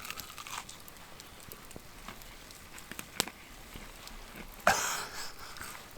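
Campfire crackling, with scattered sharp pops from the burning wood. About three-quarters of the way through comes a brief rustling crunch.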